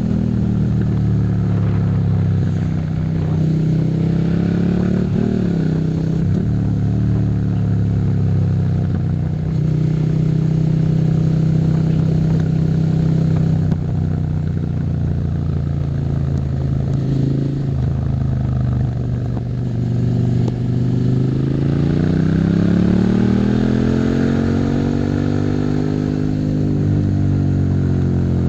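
Suzuki SV650's V-twin engine running under way at fairly steady revs; near the end the engine note climbs and then eases off.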